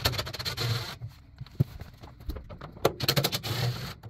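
Scraping and rattling in two bursts, about three seconds apart, as the burner-chamber access cover of a gas water heater is worked loose and taken off.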